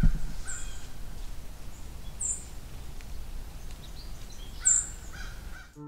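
Outdoor ambience: a steady low rumble with three short, high bird chirps that drop in pitch, about two seconds apart, the last one the loudest.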